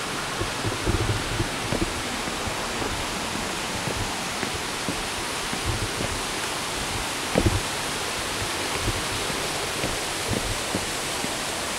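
Steady rushing roar of a waterfall, with a few soft low thumps, the clearest about seven seconds in.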